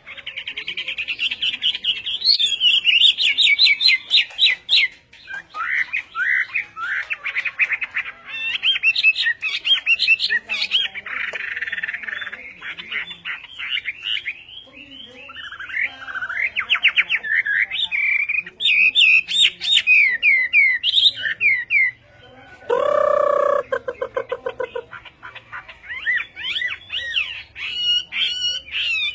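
Hwamei singing a loud, varied song: phrase after phrase of rapid repeated whistled notes and trills. About 23 seconds in, a lower, harsher call lasts about two seconds.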